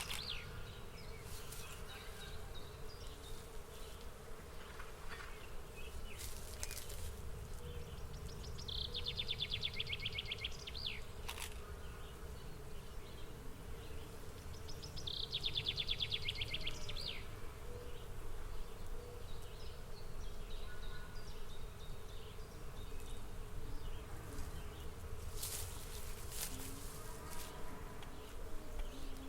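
Outdoor nature ambience of insects buzzing over a low steady rumble. A rapid, high buzzing trill comes twice, each about two seconds long, about a third of the way in and again past the middle.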